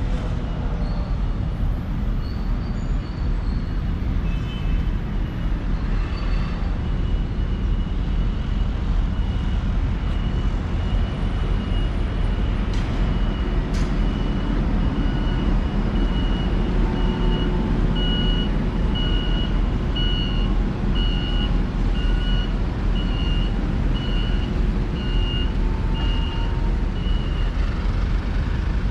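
A large vehicle's engine running amid street traffic, with a high electronic beep that starts as a steady tone and then pulses about one and a half times a second until near the end, typical of a truck's reversing alarm.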